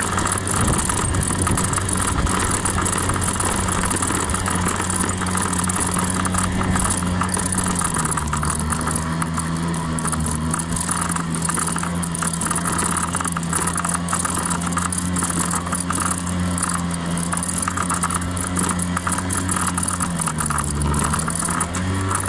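Honda 50 cc scooter engine running steadily. Its pitch drops about a third of the way in, then dips and climbs back again near the end, as the throttle changes.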